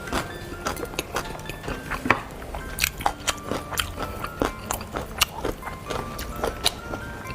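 Close-miked chewing and biting of crunchy food, with many short sharp crunches through the whole stretch, over faint background music.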